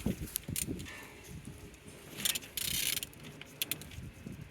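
Hyundai/Kia D4FD diesel engine being turned over, with scattered ratchet-like clicks and low knocks and a brief hiss about halfway through; the engine turns freely.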